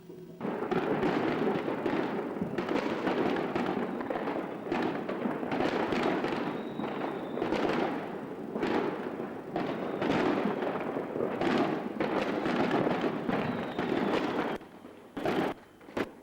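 Fireworks going off: a dense, rapid run of crackling and popping that starts about half a second in and goes on for some fourteen seconds, then a few separate bangs near the end.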